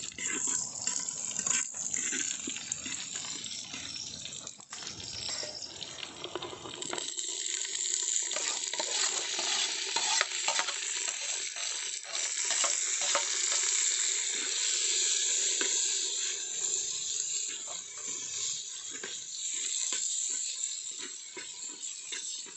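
Shallots sizzling as they fry in hot oil in a clay pot over a wood fire, with a spoon scraping and clicking against the pot and plate as they are added and stirred.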